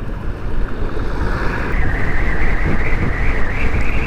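Wind buffeting the microphone on a moving motorcycle, over the bike's engine and road noise. A wavering high whine comes in about a second in and holds.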